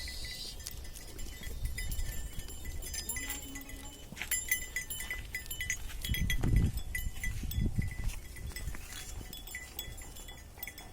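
Livestock bells clinking and jingling irregularly as farm animals move about, over a low rumble with scattered thumps. A short low call or tone sounds once, about three seconds in.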